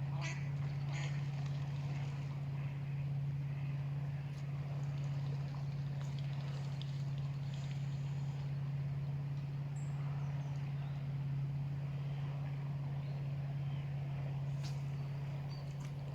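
A steady low engine hum that does not change, with a few faint bird chirps over it.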